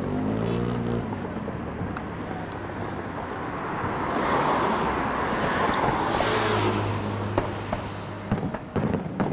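A distant fireworks display over steady road-traffic noise. A rushing swell rises and fades in the middle, and a run of sharp bangs and crackles comes near the end.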